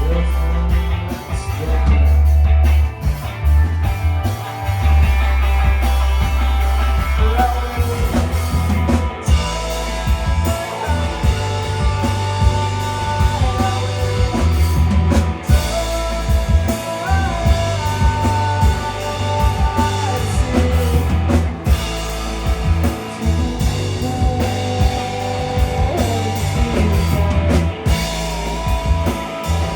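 Rock band playing live: an instrumental passage of electric guitar over drums and a heavy bass line.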